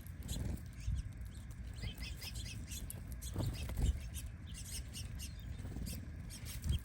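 Small birds chirping in quick short notes at a backyard feeder, with a few low thumps; the loudest thump comes about four seconds in.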